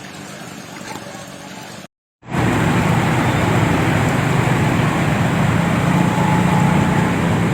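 Quieter outdoor noise, then a short dropout about two seconds in. After it comes a loud, steady vehicle engine drone with road and wind noise, as heard while riding along in the vehicle.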